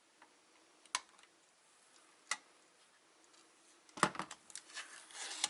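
Two single sharp clicks, then from about four seconds in a run of scratchy scraping and clicking as a knife blade cuts through the sticker holding the UPS battery pack together.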